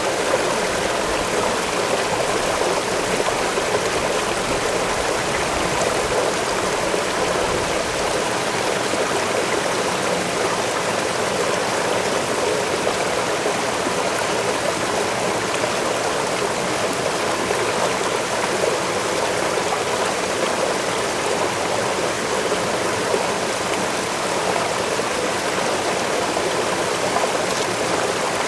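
Waterfall: a steady, even rush of falling water, with a faint low rumble in the first few seconds.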